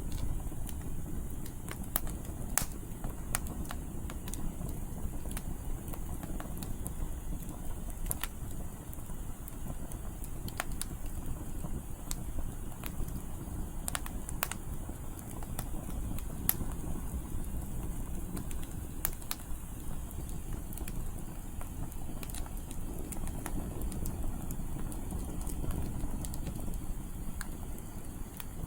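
Firewood burning in an open campfire, crackling and popping in irregular sharp snaps over a steady low rumble of strong wind.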